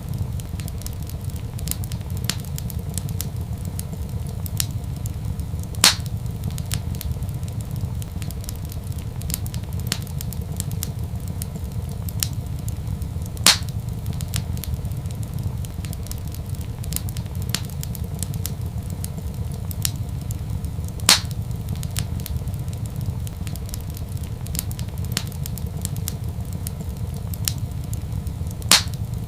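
Wood fire crackling in a fireplace: a steady low rumble under a constant scatter of small crackles, with four louder sharp pops spread evenly through it.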